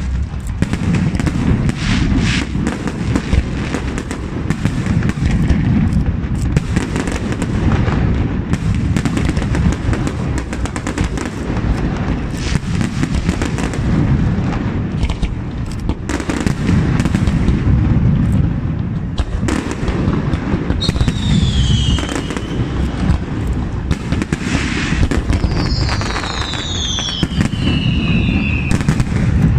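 Aerial fireworks display: a dense, continuous run of booming shell bursts and crackling. In the last third there are high whistles that fall in pitch.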